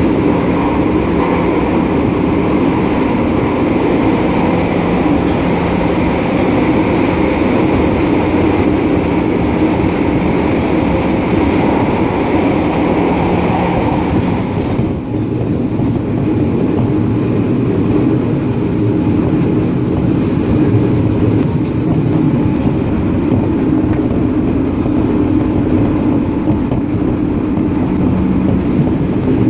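Running sound of a JR 205 series electric commuter train heard from inside the passenger car: a steady rumble of wheels on rail at speed. About halfway through, the upper hiss falls away and the sound becomes duller and lower.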